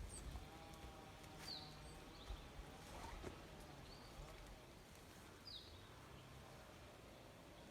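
Faint outdoor ambience with a bird giving short, high, falling chirps a few times, two of them more clearly than the rest.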